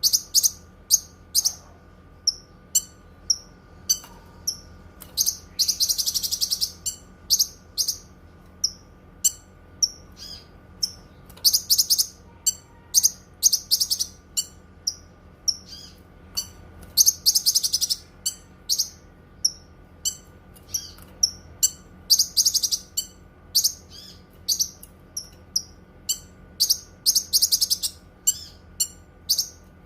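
Cucak kinoi songbird singing: a steady run of short, sharp high chirps, about two a second, broken every five seconds or so by a longer rapid trill. A faint steady hum lies underneath.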